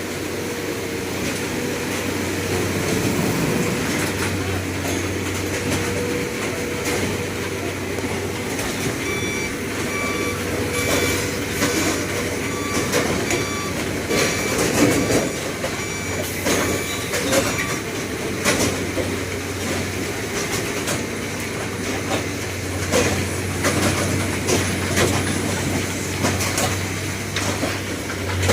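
Railway track maintenance machine running with a steady low hum, with scattered metallic knocks and clanks. From about a third of the way in to past the middle, a short high beep repeats about twice a second.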